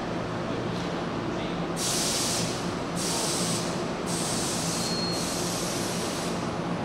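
Hankyu electric train moving through the station, with a steady low hum and rushes of hissing noise every second or so. A brief faint wheel squeal comes about five seconds in.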